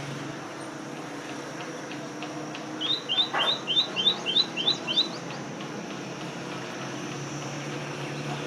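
A small bird giving a quick run of short, high, rising chirps in pairs, about four a second, for around two seconds. A steady low hum runs underneath.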